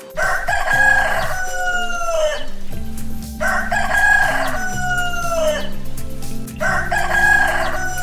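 Rooster crowing three times, each cock-a-doodle-doo about two seconds long and dropping in pitch at the end, over quiet background music.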